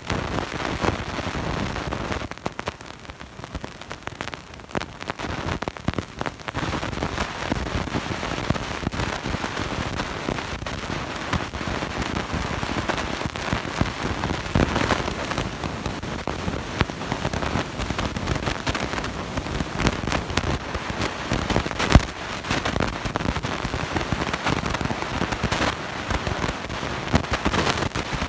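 Dense, steady crackling noise made of many small clicks, with one sharper, louder click about 22 seconds in.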